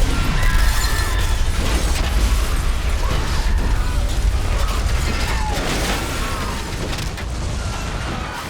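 Film sound effects of a ship's steel structure straining: a heavy deep rumble that starts suddenly, with metal creaking and groaning in short wavering strokes throughout.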